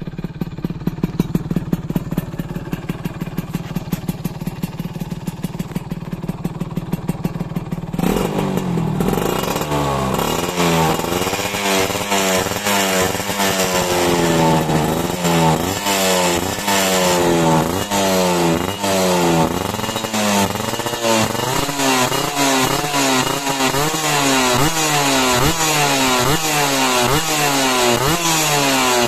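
Motorcycle engine through a Creampie CR22 type A aftermarket exhaust, idling with a pulsing beat for about eight seconds, then revved over and over. The pitch rises and falls about once a second with each blip of the throttle.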